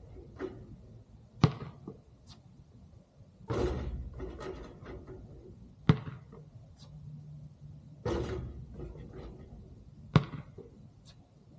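Basketball jump-shot practice: three sharp single ball bounces about four and a half seconds apart, alternating with two longer clattering hits that die away over about a second, the ball striking the hoop.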